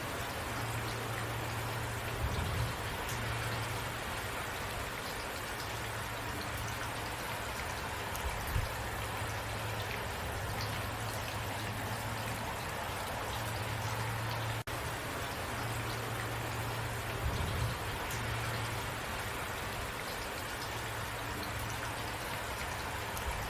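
Steady rainfall, an even hiss of falling drops, with a low hum underneath that comes and goes.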